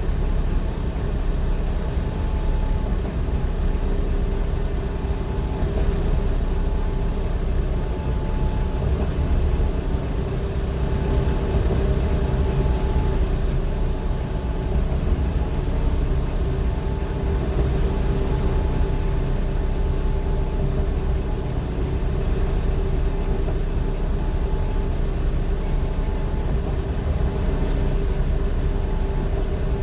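A vehicle running steadily, a continuous low engine and road rumble with a faint steady whine over it.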